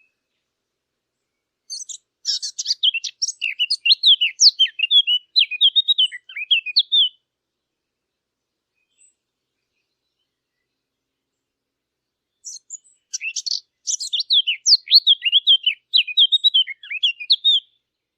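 A Sylvia warbler, the bird sold as the 'fig bird', sings two rapid, varied warbling phrases of about five seconds each. The first begins about two seconds in, and the second comes about ten seconds later.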